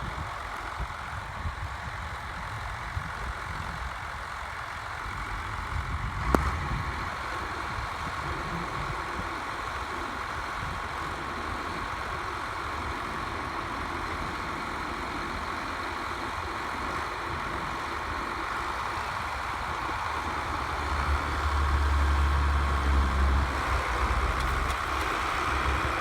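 Tractor engine running steadily, getting louder about 21 seconds in, with a single sharp knock about six seconds in.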